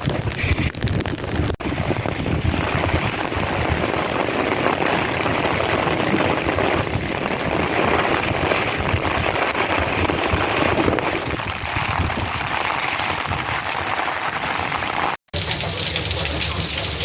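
Heavy monsoon rain pouring down in sheets: a steady, dense hiss of the downpour. It breaks off for a split second about fifteen seconds in.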